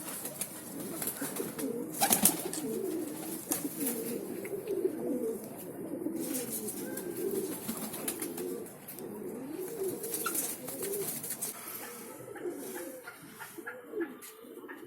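Pigeons cooing in a steady run of low, rolling calls, with a sharp click about two seconds in.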